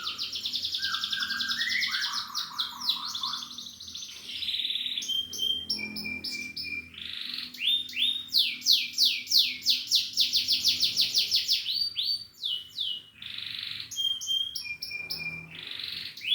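Domestic canary singing a long, continuous song of rapid trills. Fast high rolls alternate with short phrases of repeated notes, and a lower, slower trill is woven in during the first few seconds.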